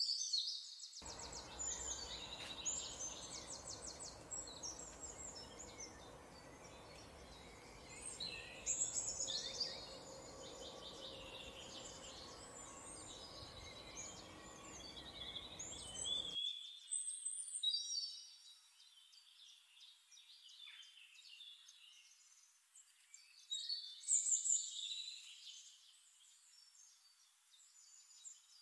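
Small birds chirping and trilling in quick high-pitched phrases, with several louder bursts of song. A faint low hum underneath cuts off abruptly about halfway through.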